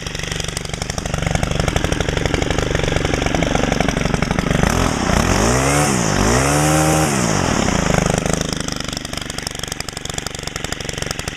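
Stihl FS90R trimmer's small four-stroke 4-MIX engine idling, then revved up twice in quick succession about five seconds in before dropping back to idle. It runs with its muffler screen removed, which makes it a little louder and meaner.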